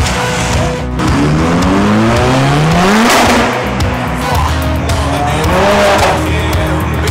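A car's engine accelerating hard, its pitch climbing for about two seconds and then rising again briefly near the end, with music underneath.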